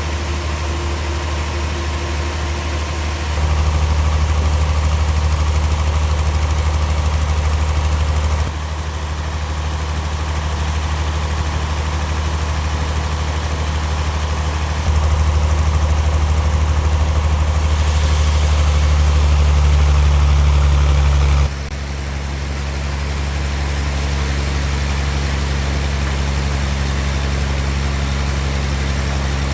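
A large engine running steadily, its level and low pitch stepping up and down abruptly several times.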